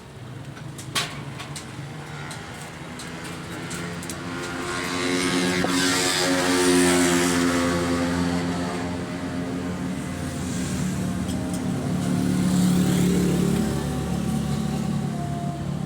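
A motor vehicle engine running, getting louder to a peak about six seconds in, easing off, then swelling again near the end. There is a single sharp click about a second in.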